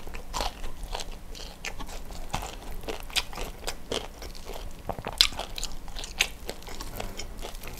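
Close-miked chewing of crispy battered fried chicken (ayam geprek): a string of irregular crisp crunches and crackles as the coating breaks between the teeth, the sharpest about five seconds in.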